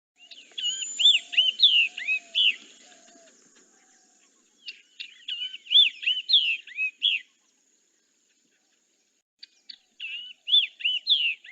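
Recorded babbler calls played back: three bouts of quick, high, slurred notes, each lasting about two seconds, with short gaps between them. These are the calls used instead of a song.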